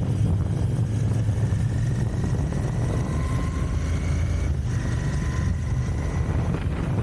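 Royal Enfield Continental GT 650's parallel-twin engine on its stock exhaust, running steadily while the bike is ridden.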